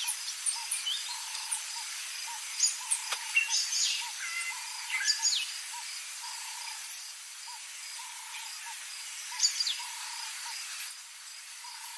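Outdoor bush ambience of several birds calling with short chirps and whistles over insect noise, with one low note repeating about twice a second.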